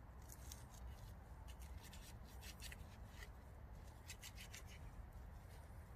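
Faint scraping and light clicks of cutlery cutting into a thick steak, over a low, steady background rumble.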